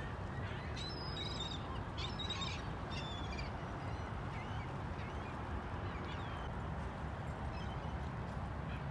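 Birds calling in short high calls, thickest in the first few seconds and sparser after, over a steady low background rumble.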